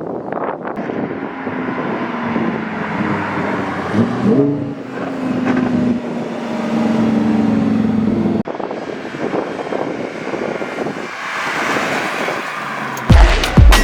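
Car engine running with a steady note and a quick rise in pitch about four and a half seconds in, over a rushing noise; the engine sound cuts off abruptly a little past eight seconds, leaving the rushing noise, and a heavy music beat starts near the end.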